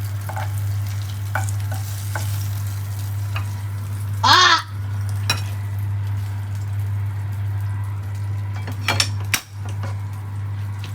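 Sausages frying in a pan, a steady sizzle of hot oil, with a few sharp clicks of tongs or utensils against the pan about nine seconds in. A person cries out 'Ah!' about four seconds in.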